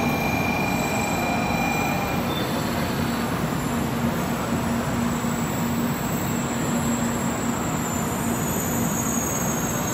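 A 700 Series 'Rail Star' Shinkansen train rolling along the platform: a steady rush of wheel and running noise under a held low hum. A thin high whine stops about two seconds in.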